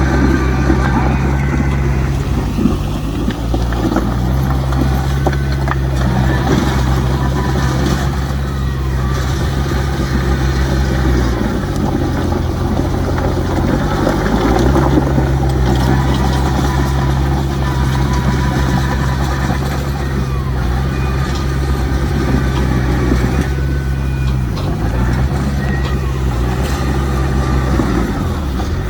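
Heavy diesel engines of earthmoving machinery, a bulldozer and dump trucks, running steadily. The engine pitch sags briefly and picks back up several times.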